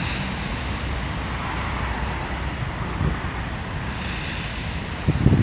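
Passenger train running along the track away from the listener: a steady rumble. Near the end, wind buffets the microphone with low thumps.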